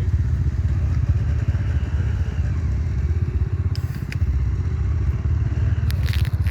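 Enduro motorcycle engine running steadily with a fast, low, pulsing exhaust note, with a few sharp clicks about four seconds in and near the end.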